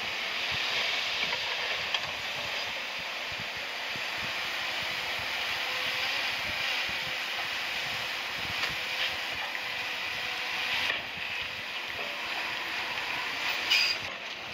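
Heavy earth-moving machinery at work, bulldozer and dump trucks, making a steady hissing mechanical noise, with a brief, sharper, louder sound near the end.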